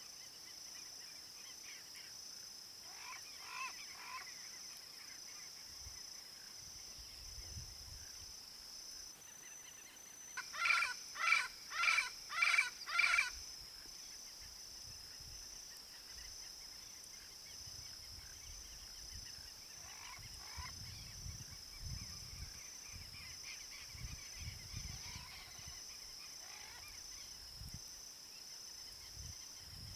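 Yellow-faced parrots calling: a run of five loud calls about ten seconds in, roughly two a second, with fainter scattered calls before and after, over a steady high-pitched drone.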